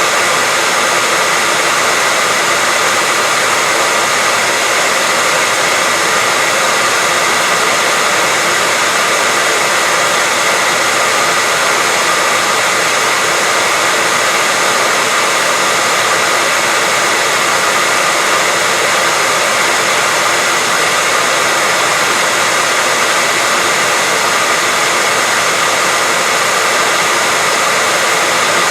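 Hair dryer running steadily: a loud, unchanging blowing hiss with a faint high whine in it.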